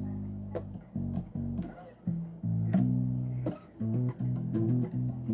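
Bass guitar being played solo: a run of plucked low notes, each with a sharp attack, separated by short gaps.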